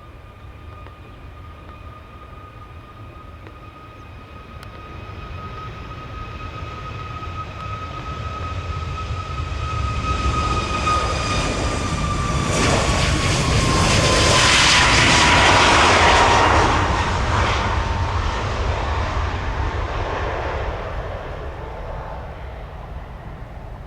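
Jet airliner taking off and passing by: its engine noise builds to a peak about two-thirds of the way through and then fades, with a steady fan whine that drops in pitch as the aircraft goes past.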